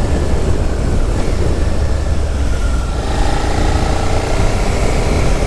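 Suzuki SV650X's V-twin engine running under way, with heavy wind rumble on the microphone. About three seconds in, a clearer pitched engine note comes up over it.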